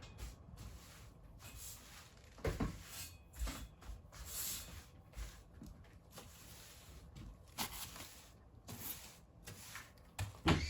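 Light household handling noises: scattered soft knocks and thuds, with a brief rubbing or brushing sound about four and a half seconds in.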